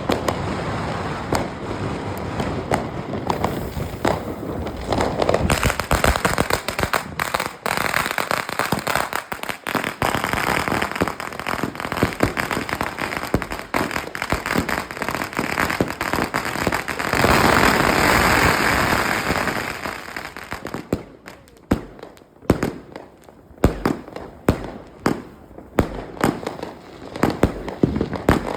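A 100-shot, 1.2-inch fireworks battery firing: a dense run of bangs and crackling that builds to its heaviest after about seventeen seconds, then thins to separate loud reports, about one or two a second, near the end.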